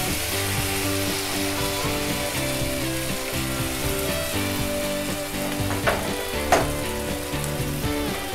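Onions, tomatoes, green chillies and curry leaves sizzling in oil in a non-stick pan while a wooden spatula stirs them, with two sharp knocks a little before the end. Soft background music with held notes plays underneath.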